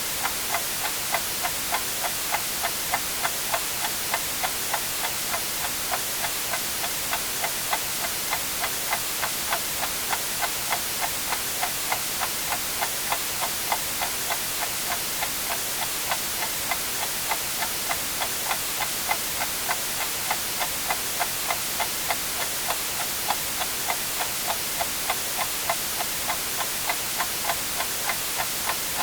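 A clock ticking steadily, about two ticks a second, over a constant white-noise hiss.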